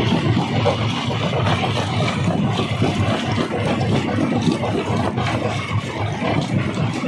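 Stone crusher machine running with rock being crushed: a continuous, uneven clatter with no break.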